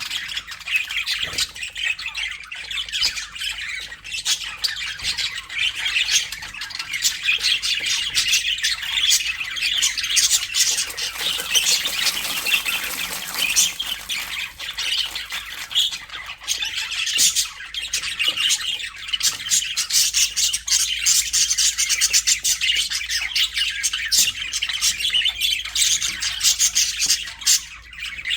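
A flock of budgerigars chattering continuously, many birds warbling, chirping and squawking over one another in dense, rapid short calls.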